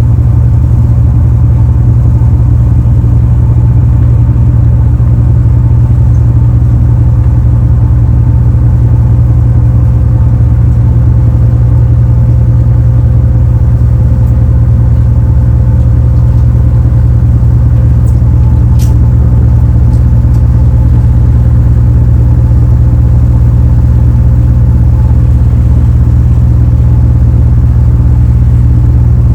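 Car ferry Furutaka's diesel engines running steadily, heard on board as a loud, even low drone.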